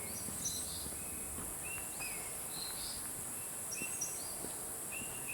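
Tropical forest ambience: a steady high-pitched drone of insects, with birds chirping in short whistled notes that recur every second or so, some dropping slightly in pitch.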